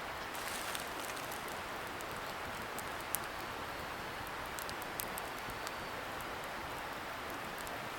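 Wood bonfire crackling, with scattered sharp pops, the loudest about three seconds in, over the steady hiss of a river flowing a little way off.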